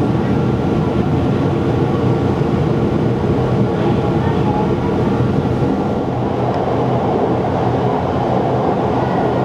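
Rhaetian Railway metre-gauge electric train running steadily on the Arosa line: a continuous rolling rumble of wheels on rail with steady humming tones from the drive.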